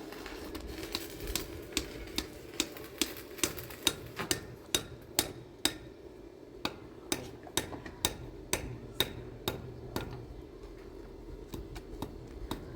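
A hammer striking metal in a steady rhythm, about two blows a second, with a brief pause a little past halfway, over a steady hum.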